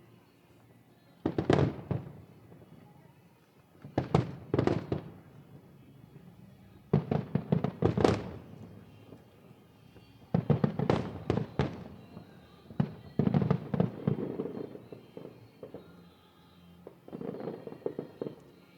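Aerial fireworks shells bursting in quick volleys of sharp bangs, about six clusters of several bangs each, separated by quieter gaps of a second or two.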